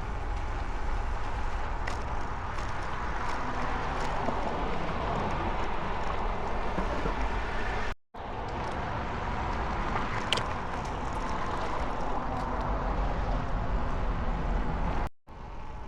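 Steady wind rush on the microphone with road noise from riding, heaviest in the low end. It cuts out abruptly twice, about eight seconds in and just before the end.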